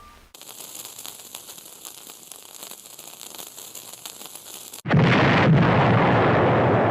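Cartoon sound effects: a faint crackling hiss, then about five seconds in a sudden loud explosion-like blast that carries on as a steady rush.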